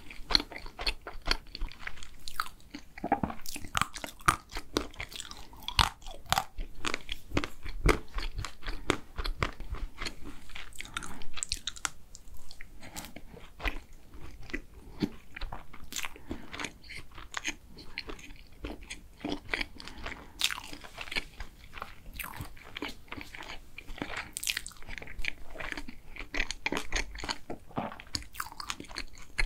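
Close-miked chewing of chocolate cake and ice cream: mouth sounds with many quick, irregular clicks and smacks.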